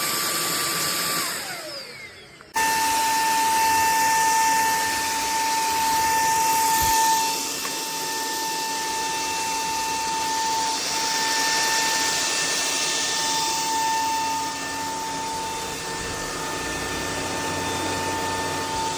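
Cordless stick vacuum's motor running with a steady high whine. About a second in it winds down, its pitch falling, then it starts again abruptly and runs steadily.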